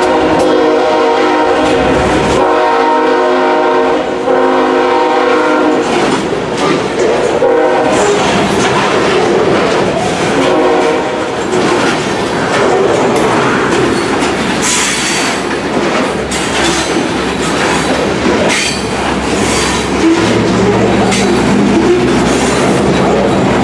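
A freight locomotive's air horn sounds a chord, with a short break, and stops about six seconds in. The train then rumbles past, its wheels clattering over the rail joints.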